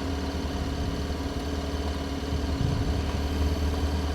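KTM 1290 Super Adventure's V-twin engine running steadily under the riders, a low even drone that gets slightly louder about halfway through.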